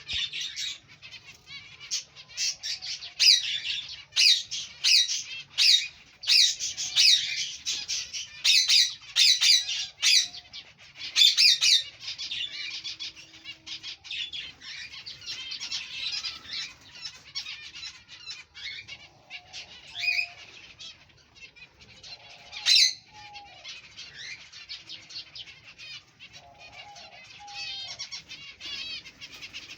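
A colony of finches calling and chirping together: many overlapping short, high calls, with sharp, louder calls coming thick over the first twelve seconds, then a denser, softer chatter.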